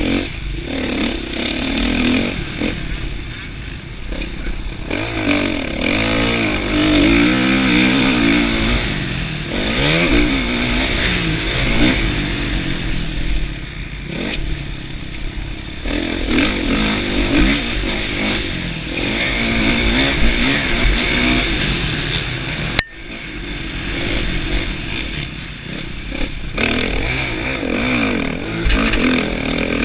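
Kawasaki KX450F single-cylinder four-stroke motocross engine under hard riding, revving up and dropping back again and again as the throttle is opened and closed, with wind rumble on the camera microphone. About two-thirds of the way through the sound drops off suddenly for a moment, then the engine picks up again.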